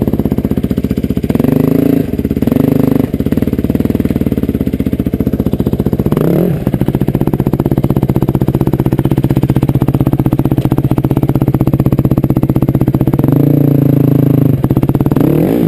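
Motorcycle engine running steadily as the bike is ridden, its note dipping and rising briefly about six seconds in and again near the end.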